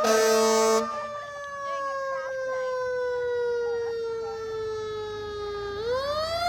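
Fire truck siren wailing, its pitch sliding slowly down and then rising again near the end. A loud, steady horn blast cuts off just under a second in.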